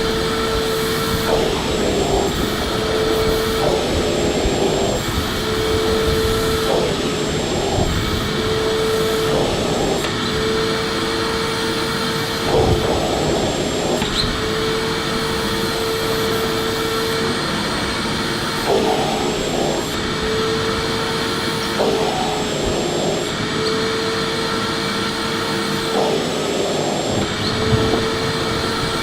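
Electric vacuum cleaner running steadily. A held hum tone in its sound breaks off briefly every few seconds.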